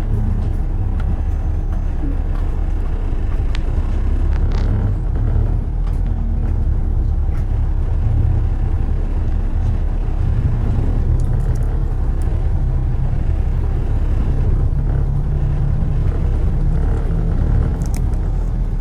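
Steady low rumble of a car driving: engine and tyre road noise, with a few faint ticks.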